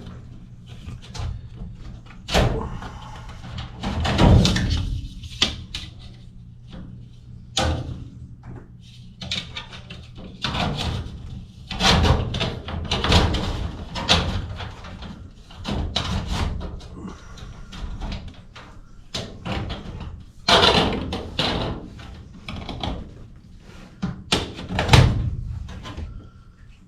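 Irregular knocks, bangs and rattles of sheet-metal duct parts being handled and fitted into place, with a steady low hum beneath.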